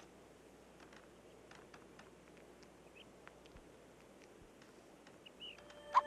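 Squirrel sounds: one sharp short chirp at the start, then faint scattered clicks and two small squeaks. Music comes in at the very end.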